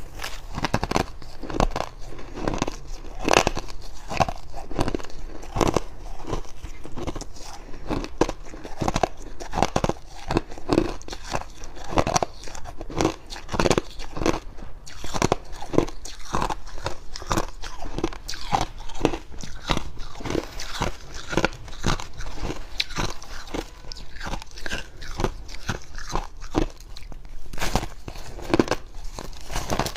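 Close-up crunching of fluffy freezer frost being bitten and chewed, a dense run of irregular dry crunches several times a second.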